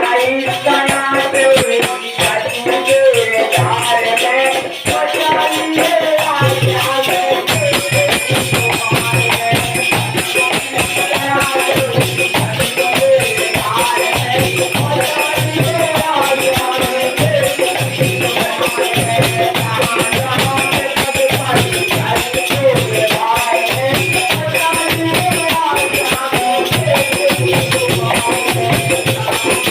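Devotional kirtan music: a wavering melody line over a steady low drum beat and constant jingling, shaken percussion.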